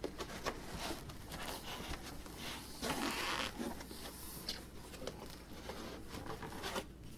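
Parts and packaging being handled while unboxing a 3D printer kit: scattered light knocks and clicks, with a longer scraping rustle about three seconds in.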